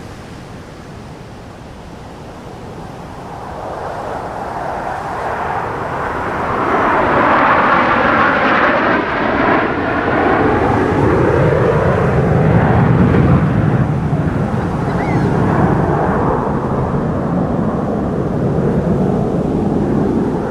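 Fighter jet flying past. Its engine noise swells over several seconds and then stays loud, with a sweeping, phasing tone as it passes.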